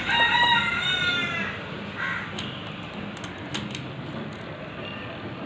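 A crow cawing: one long call at the start, then a short second call about two seconds in, with a few faint clicks of tool work afterwards.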